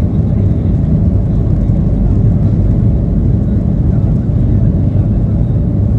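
Airliner cabin noise: a steady, loud, low rumble of the engines and airflow, heard from inside the aircraft.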